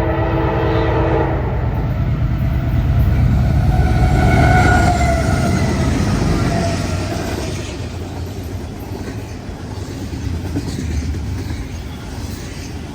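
Diesel freight train horn ending a chord blast about a second in. The locomotive then runs past close by, loudest about four to five seconds in, and the rumble of the rolling train eases off afterwards.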